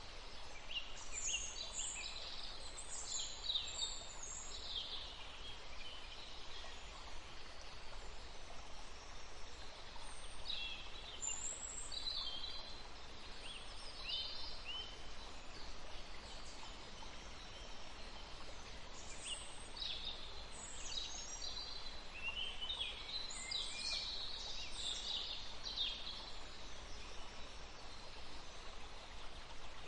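Songbirds chirping and singing in clusters of quick high notes, separated by short pauses, over a steady background hiss.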